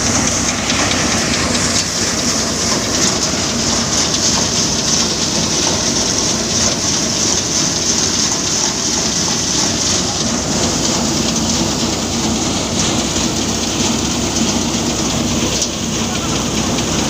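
Tractor-driven paddy thresher running, with a loud, even rushing hiss and a steady engine hum underneath.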